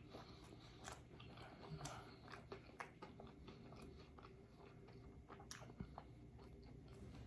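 Faint close-up chewing of a mouthful of crispy fried chicken sandwich: soft, irregular wet clicks and small crunches.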